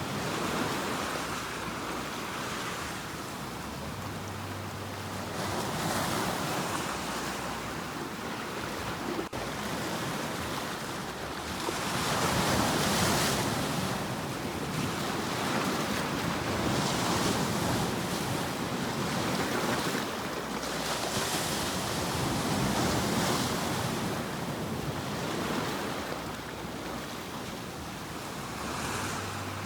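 Sea waves breaking and washing in a continuous surf, swelling and falling back every few seconds, the biggest surge about twelve seconds in.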